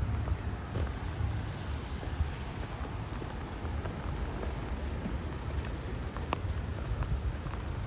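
Steady rain falling, with scattered sharp drip ticks over a low rumble.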